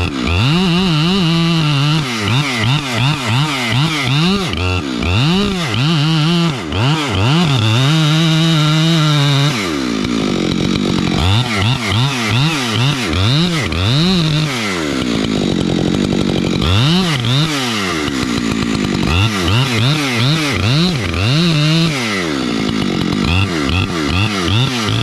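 Chainsaw cutting into a dead gum's trunk to make the face cut. The engine runs at full throttle, with its pitch dipping and climbing back again and again as the bar is worked around the cut, and holding steady for a couple of stretches.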